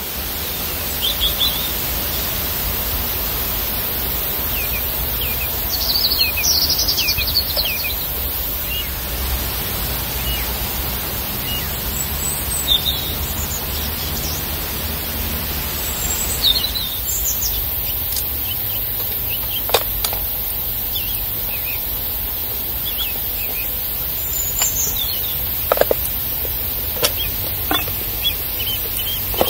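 Small birds chirping and singing on and off in woodland over a steady background hiss and low rumble, with a few short sharp clicks in the second half.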